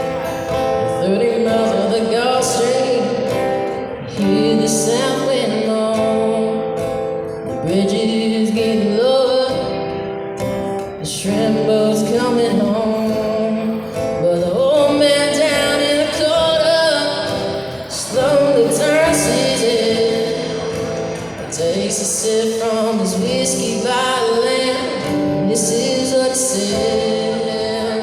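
A voice singing a song over strummed acoustic guitar.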